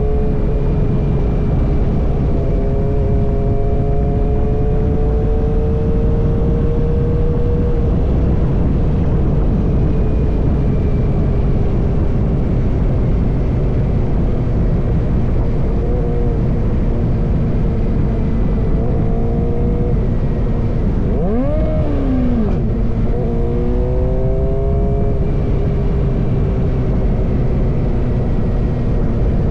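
Suzuki GSX-R motorcycle engine running through an M4 full-system exhaust, holding a steady note whose pitch drifts slowly over a heavy low rumble. About three-quarters of the way through, the pitch rises and falls quickly once, like a brief rev or gear change, before it settles back to a steady note.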